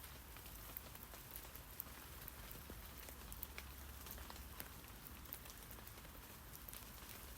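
Rain falling on tree leaves: a steady soft hiss with many scattered, irregular drop ticks.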